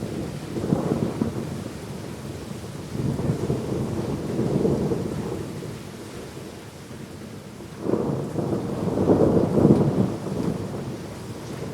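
Thunder rumbling over steady heavy rain: a long rolling rumble in the first half, then a second, louder roll that breaks in sharply about eight seconds in and dies away near the end.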